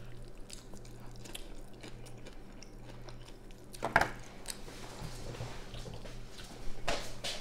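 Close-up chewing and mouth sounds from eating, with a sharp knock about four seconds in and a few more knocks near the end, over a low steady hum.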